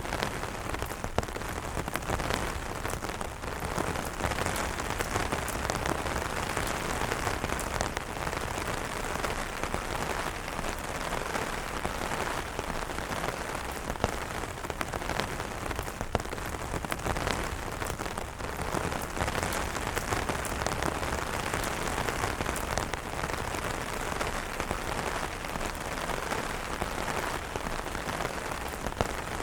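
Steady rain pattering on an umbrella canopy, a dense even hiss with many sharp individual drop taps on top.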